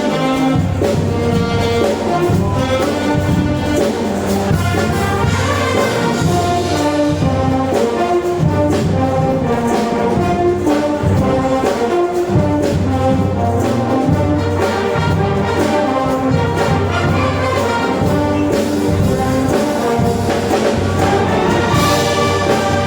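Filipino brass band playing a medley arrangement, with trumpets and trombones carrying the melody over a steady beat.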